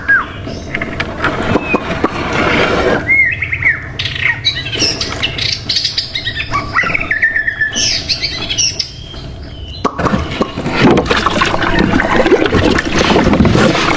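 Birds chirping: a run of short, quick calls that glide up and down in pitch, from about three to nine seconds in. A loud, rough, rushing noise fills the first few seconds and returns near the end.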